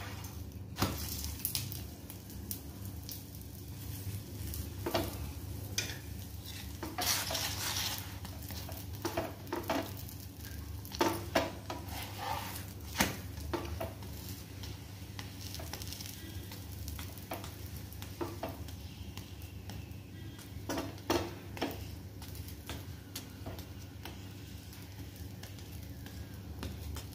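An aloo paratha sizzling in oil on a nonstick tawa, with irregular scrapes and taps of a wooden spatula pressing it against the pan, over a low steady hum.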